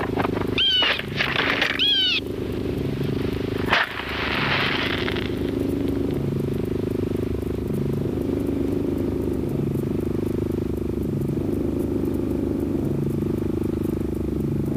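Car engine idling steadily. Two short pitched calls come about one and two seconds in, then a sharp knock near four seconds followed by about a second of hiss.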